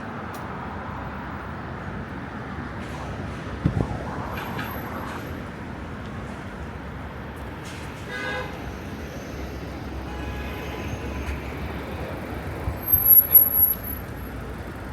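Street traffic noise with vehicles passing and a short horn toot about eight seconds in. Near the end comes a brief cluster of loud sharp sounds with a high squeal.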